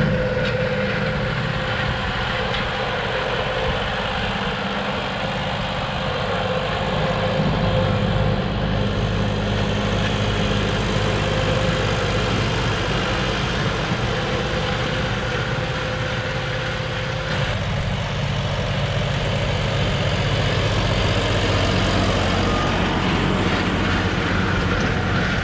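John Deere 5405 tractor's common-rail diesel engine running steadily, with a thin whine alongside that fades out about two-thirds of the way through.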